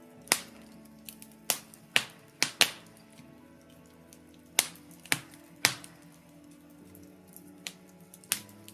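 Birch-wood fire in a fireplace crackling, with about ten sharp, irregular pops, over soft, steady background music.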